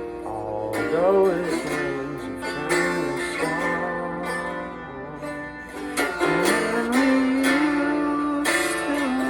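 Guitar music: a slow instrumental passage of held chords with a lead line of bent, sliding notes.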